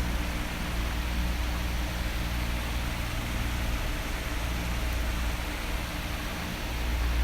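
Electric fan running, a steady rushing noise with a low rumble underneath; the rumble grows louder again near the end.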